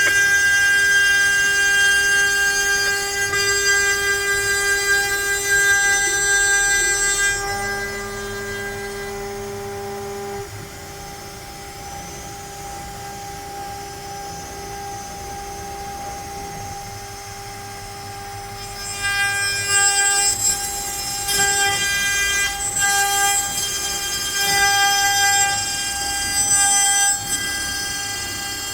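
CNC router spindle whining at a steady pitch while it mills letters into pine, with a hiss of the bit cutting wood. The cutting hiss fades out for about ten seconds around the middle, leaving mostly the spindle whine, then comes back.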